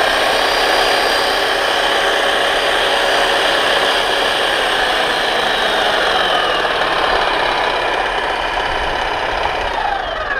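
Power Fist electric jackhammer running free at its higher speed settings, up to 6, a loud, steady mechanical running noise. Without pressure on the bit it does not yet hammer. Near the end it is switched off and the pitch drops quickly as the motor winds down.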